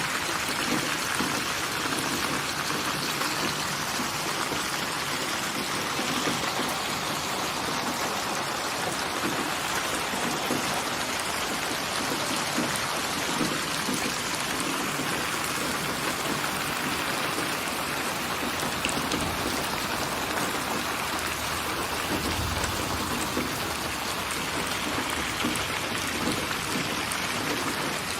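Steady rain falling, an even hiss of many drops, with a brief low rumble about three quarters of the way through.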